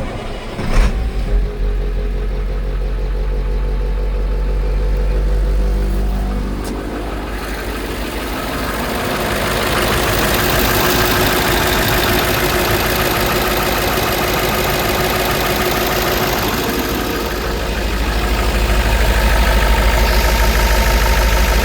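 International T444E 7.3-litre V8 turbo-diesel in a 1998 International 4700 running clean, with a short loud burst about a second in. The sound grows fuller about eight seconds in and louder again near the end.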